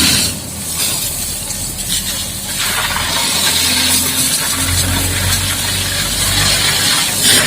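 High-pressure water jet from a booster pump hissing steadily as it sprays a dump truck, with an engine running underneath; the spray grows louder about two and a half seconds in.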